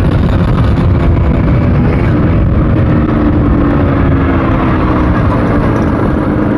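Yamaha RX100's two-stroke single-cylinder engine running as the motorcycle is ridden, its pitch easing slightly lower in the second half.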